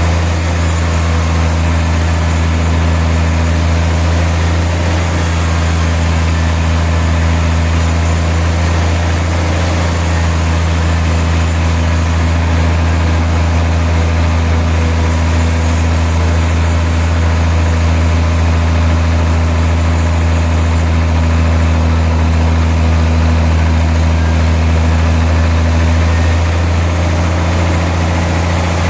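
Sawmill machinery running steadily: a loud, constant deep engine or motor hum over an even hiss, with no separate cuts or knocks standing out.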